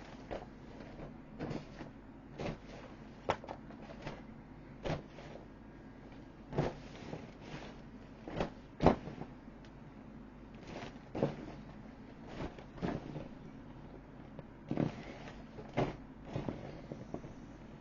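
Irregular knocks and thumps, about a dozen short ones spread apart, the loudest about nine seconds in, from an inflatable vinyl toy boat being handled and struck.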